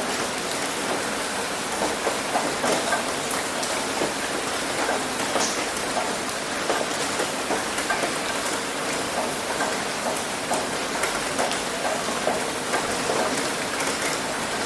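Heavy rain hitting a roof: a steady dense hiss with many distinct drop taps scattered through it.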